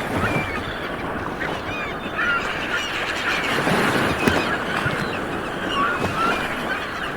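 Light waves washing onto a beach, with a flock of birds calling over them: many short, high calls that rise and fall, overlapping throughout.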